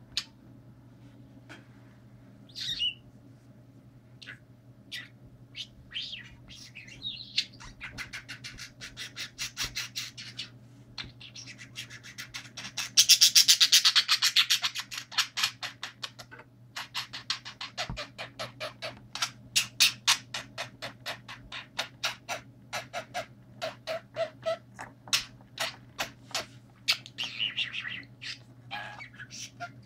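Budgerigar chirping and warbling in long runs of short, rapid chirps and squawks, loudest in a dense burst about halfway through.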